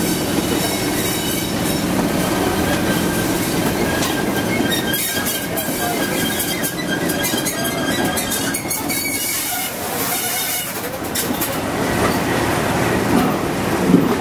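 Train hauled by Class 37 diesel locomotive 37 254 running along the line, heard aboard, with a thin high wheel squeal through roughly the first half.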